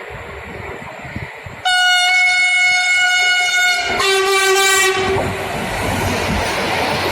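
Freight train locomotive horn sounding two notes: a high note for about two seconds, then a lower, shorter note. The rushing noise of the approaching train follows and swells.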